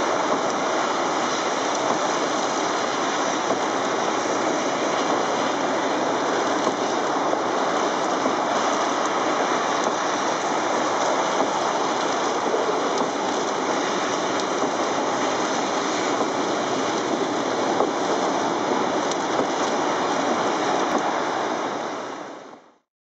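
Torrential rain: a loud, steady rush of water noise that fades out near the end.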